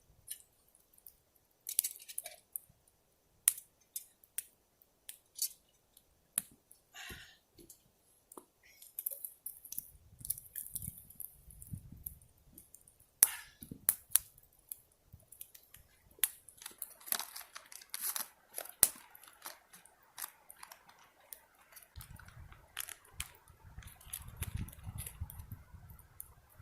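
Camp cookware being handled while tea water is set up: scattered sharp clicks and clinks, with a low rumble twice, around the middle and again near the end.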